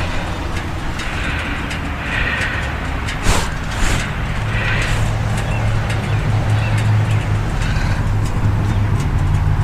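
Harley-Davidson V-twin motorcycle engine running steadily, with a rushing haze over it and its low note growing stronger about halfway through. There is one short knock a little over three seconds in.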